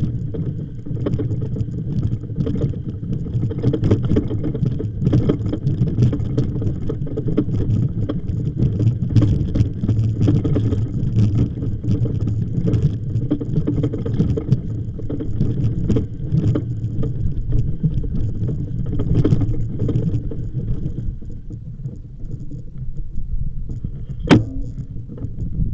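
Steady rumble and rattling of a bicycle moving over rough ground, with many small clicks and knocks. The rattling thins out after about 21 s, and a single sharp knock comes near the end.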